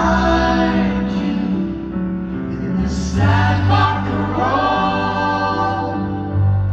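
Live rock band music with several voices singing together, choir-like, over sustained low held notes.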